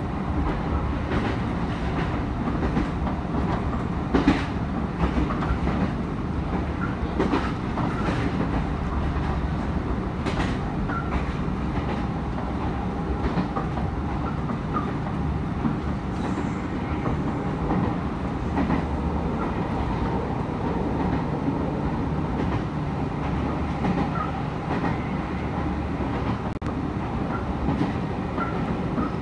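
Nankai electric train running along the rails, heard from inside the car: a steady rumble with the clickety-clack of wheels over rail joints, a few sharper clacks around four, seven to eight and ten seconds in.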